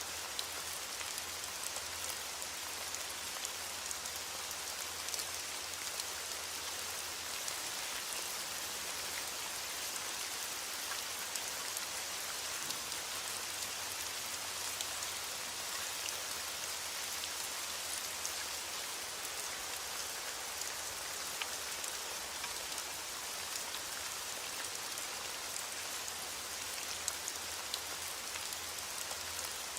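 Steady rain falling, an even hiss with the small ticks of many drops landing on a surface.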